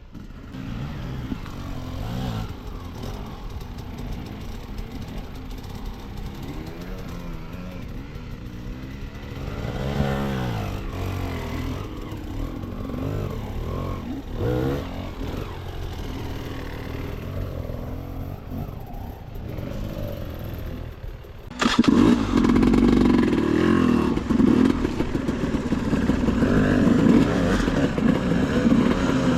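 Enduro dirt bike engine revving up and down as it is worked over slippery ground. About 21 seconds in, the engine suddenly becomes much louder and closer, running hard.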